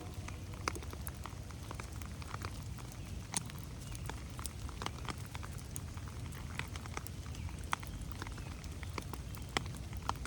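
Rain in a forest: irregular drops pattering and ticking on leaves and plants, over a low steady rumble.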